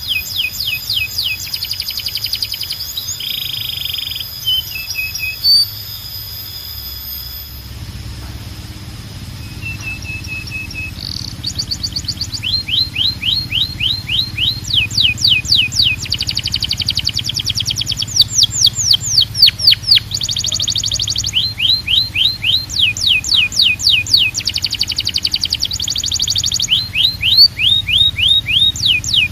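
Canary singing: long runs of fast repeated notes and trills, each run at one speed and then switching to another. The song thins out about a quarter of the way in, then comes back louder in quick rolls.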